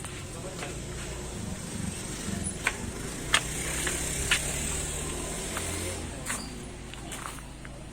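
A motor vehicle engine hum that swells and then fades, with a few sharp clicks or knocks in the middle.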